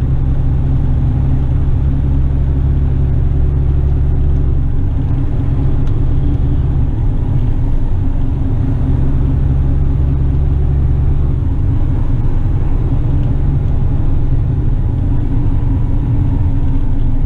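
Western Star tipper truck's diesel engine running steadily under way, with road and drivetrain rumble heard from inside the cab. The deep drone eases and comes back a couple of times.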